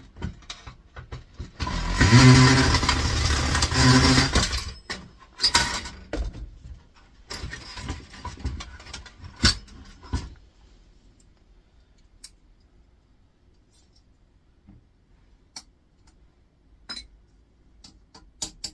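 Metal parts of an air fryer being worked loose and handled: a loud burst of mechanical whirring and rattling in the first few seconds, then scattered knocks and scrapes, and then only occasional faint clicks.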